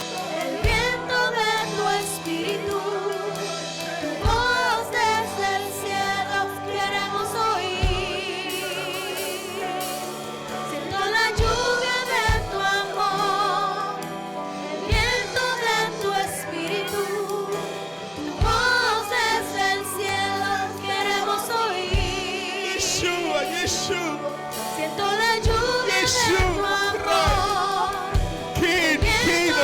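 Live worship music: held, wavering sung notes over a sustained low accompaniment, with a drum hit every three to four seconds.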